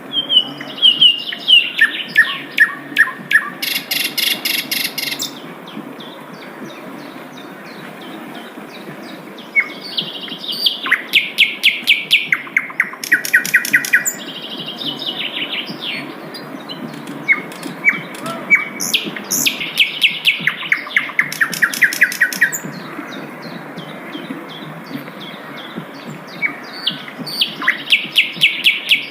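Sikatan londo flycatcher singing: four phrases, each a fast run of sharp repeated notes that steps from one pitch to another. There are pauses of a few seconds between the phrases.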